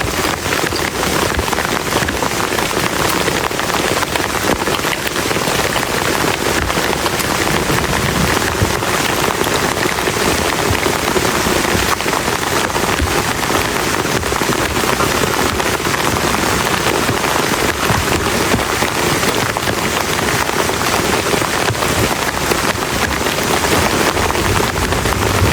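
Heavy rain falling steadily and densely on a camping shelter, a constant patter of drops with no let-up.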